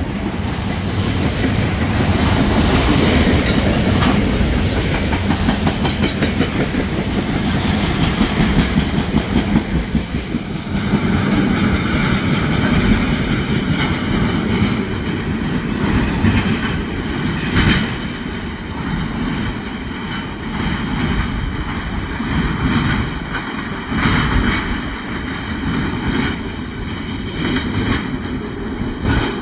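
Freight train of loaded waste-container cars rolling past, steel wheels running on the rails with scattered sharp knocks. The sound eases off after the middle as the end of the train draws away.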